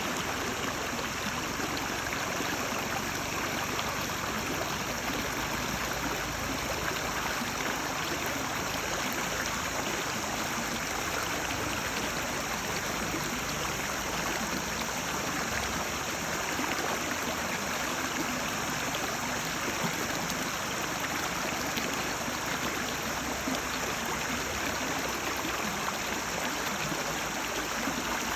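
Stream water babbling and trickling in a steady, unbroken flow.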